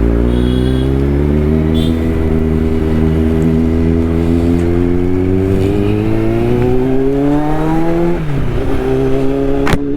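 Kawasaki inline-four superbike with an aftermarket full-system exhaust, its catalytic converter still fitted, pulling through a gear with the engine note climbing steadily for about eight seconds. The pitch then drops sharply at an upshift and climbs again.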